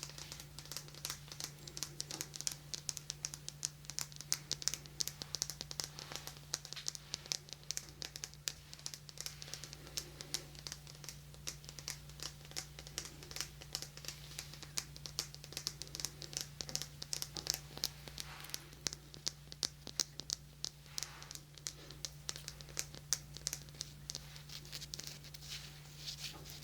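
Fingers tapping and scratching close to a binaural microphone: a fast, irregular patter of light clicks and crinkly scratches, over a steady low electrical hum.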